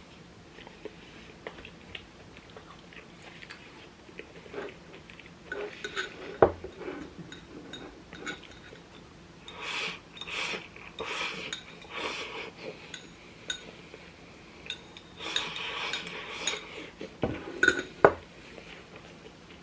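Eating utensils clinking and scraping against bowls and plates, irregular, with a sharp knock about six seconds in and two more near the end.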